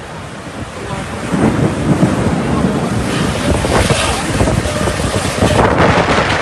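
Heavy rain with wind buffeting the microphone, growing louder about a second in.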